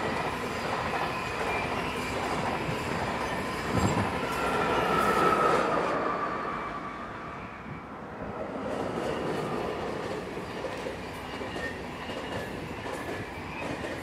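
Two SBB electric passenger trains run by in turn over a bridge, making steady rolling noise on the rails. The first is loudest about five seconds in, with a whine that falls slightly in pitch as it passes, then fades into a short lull. The second comes in with faint rhythmic clicking of wheels on the rails.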